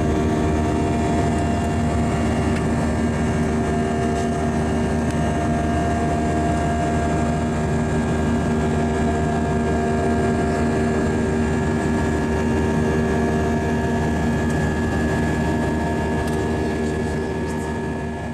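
Airbus A320 cabin noise in flight after takeoff: a steady roar of the jet engines and rushing air, with several steady engine tones whining through it. It begins to fade right at the end.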